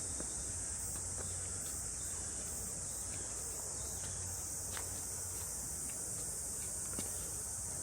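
Cicadas buzzing in the trees: a steady, high, unbroken drone, with a few faint ticks beneath it.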